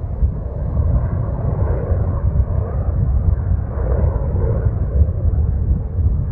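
Low, steady rumble of an aircraft.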